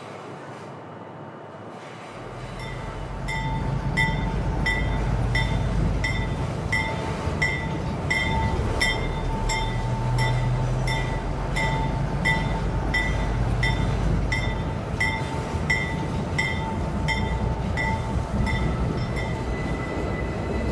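Train running along the track, building up from quiet about two seconds in, then a steady rumble with an even clickety-clack of about three clicks every two seconds.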